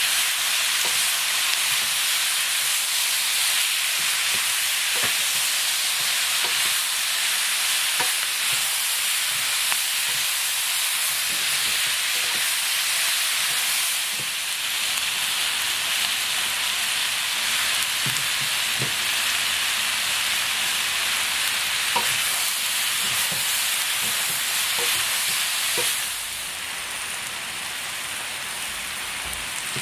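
Spicy webfoot octopus and pork belly stir-fry sizzling hard in a frying pan, its liquid boiling off quickly, while wooden spatulas stir and toss it with occasional knocks against the pan. The sizzle eases a little about halfway and is quieter for the last few seconds.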